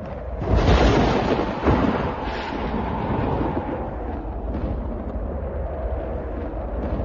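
A thunderclap about half a second in, loudest at first, trailing into a long rolling rumble with a couple of smaller surges that slowly fades.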